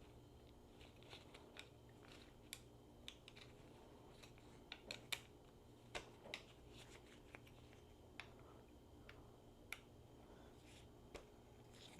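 Faint, scattered clicks and light taps of hand tools and small metal parts being handled during motorcycle reassembly, over a low steady hum.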